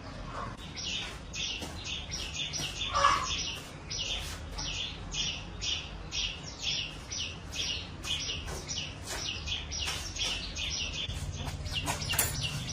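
A bird chirping over and over, about two to three short, high chirps a second, over a low background hum.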